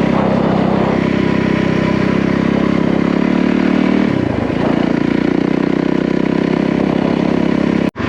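Yamaha WR450F's single-cylinder four-stroke engine running steadily while the trail bike is ridden, with a brief drop and pick-up in revs about four seconds in. The sound cuts out abruptly for an instant near the end.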